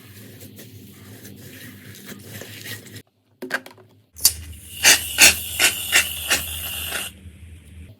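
Slime being handled, with soft sticky crackling. After a brief gap, a run of about seven sharp pops comes over a steady hiss.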